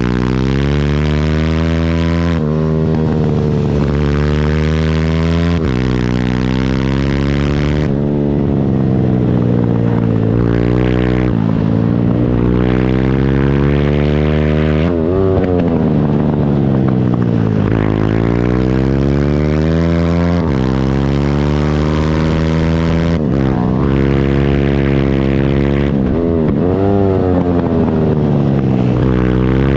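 Single-cylinder pit bike engine, heard from on board, revving hard through the gears. The pitch climbs and drops sharply at each upshift, then falls away as it slows for corners and climbs again on the exits.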